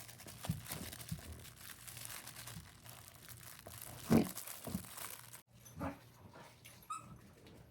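Crinkle paper inside a plush dog toy crinkling as a dog mouths and shakes it. The crinkling breaks off sharply about five and a half seconds in, and quieter rustling follows.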